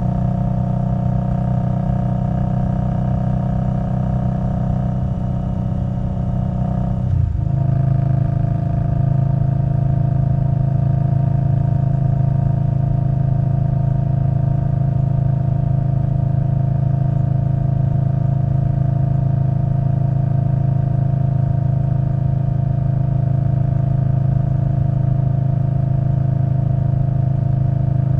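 Exhaust of a 2021 Indian Scout Bobber Twenty's V-twin through Vance & Hines Twin Slash mufflers, riding under steady throttle. About seven seconds in the pitch drops sharply, as with an upshift, then holds steady at lower revs.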